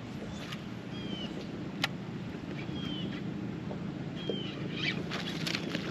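A few short, downward-sliding bird chirps over a steady low hum, with one sharp click a little under two seconds in.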